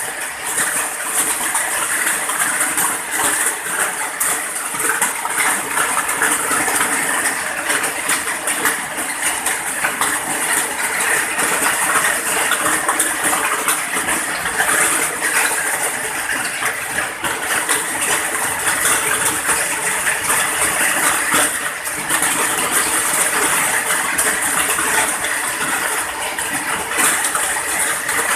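Rain falling steadily, a dense patter of drops without let-up.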